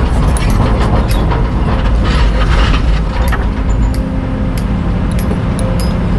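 Heavy diesel engine of a hydraulic excavator running under load while it digs, with scattered sharp clanks and rattles of the bucket and material.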